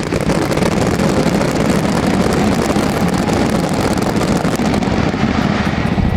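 Fireworks display: a dense, continuous crackle and rumble of many shells bursting together.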